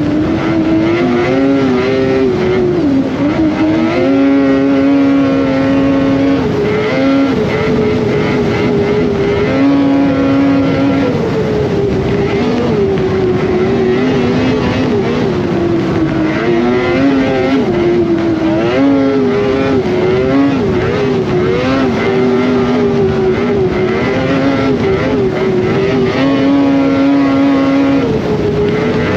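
Polaris Indy Cross Country 600 snowmobile's two-stroke engine running under way. Its pitch rises and falls with the throttle, holding steady for a second or two at a time.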